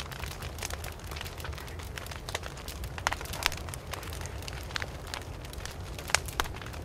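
Wood fire burning, crackling and popping irregularly over a steady low rumble of the flames. A few sharper pops come about three seconds in and again near the end.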